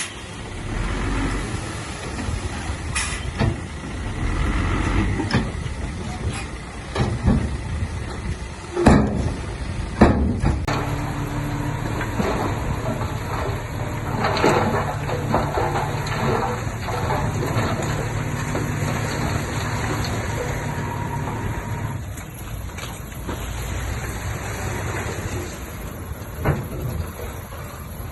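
Heavy diesel earthmoving machinery running, with several loud clanks in the first ten seconds, then a steady engine note.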